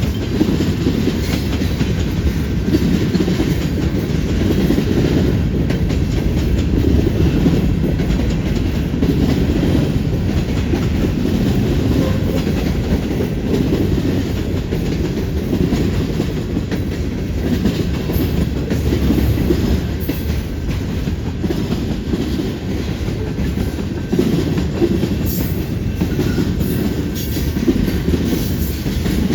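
Cars of a CN freight train rolling past at close range: a steady heavy rumble with fast clickety-clack of wheels over rail joints and the junction switch. A few faint high-pitched squeaks come in during the last third.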